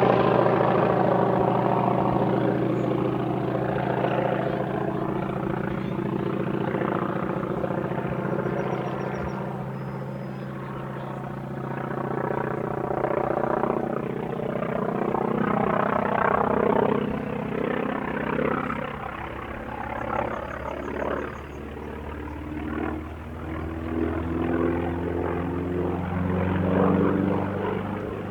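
A North American T-28 Trojan's Wright R-1820 nine-cylinder radial engine and propeller in a flying display: loud at first, fading as the plane moves away, then swelling and wavering again as it comes round, with the engine note dropping in pitch about two-thirds of the way through.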